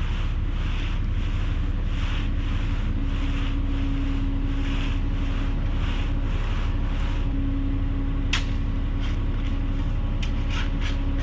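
An engine running steadily under a loud low rumble, with a regular swishing about every 0.7 seconds that stops about seven seconds in, then a sharp click and a few lighter clicks near the end.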